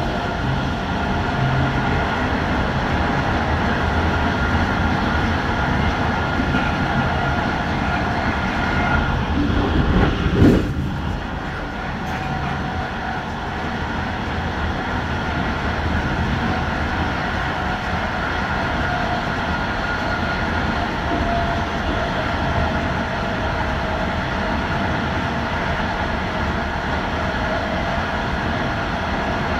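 Electric passenger train running at speed, heard from inside the train: a steady rumble of wheels on rail with a steady whine over it, and one short loud thud about ten seconds in.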